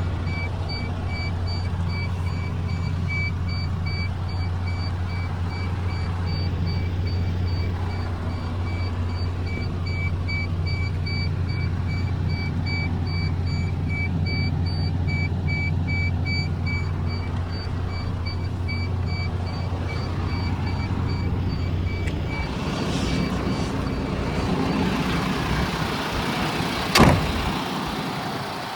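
Diesel engine of a MAN TGS 41.480 tanker truck running steadily, with a rapid, evenly pulsed high-pitched beeping over it. About three-quarters of the way through, the engine hum stops. A few seconds later comes a single sharp bang.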